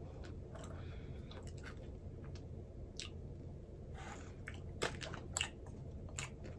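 A person chewing a piece of chocolate with small crunchy bits in it, close to the microphone: soft mouth sounds with a few short crunches and clicks, most of them in the second half, over a low steady hum.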